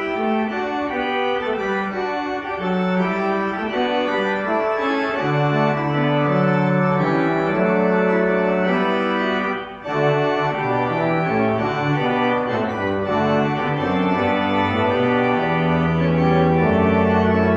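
Organ music: slow, held chords that change every second or so, with a brief dip in the sound just under ten seconds in.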